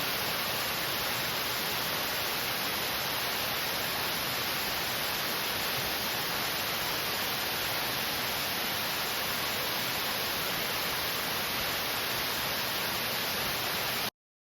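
Waterfall running over rock: a steady rushing hiss of falling water, cut off abruptly near the end.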